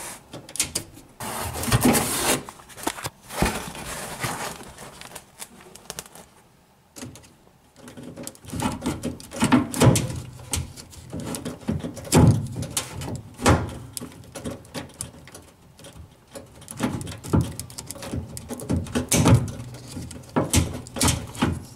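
Hands working on a washing machine's drain pump, pulling off its wire terminals and hose clamp: irregular clicks, knocks and scraping of plastic and metal parts, with a quieter lull about a third of the way in.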